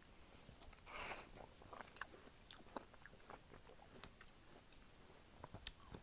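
Biting into and chewing a slice of watermelon: one louder bite about a second in, then faint chewing with many small scattered clicks.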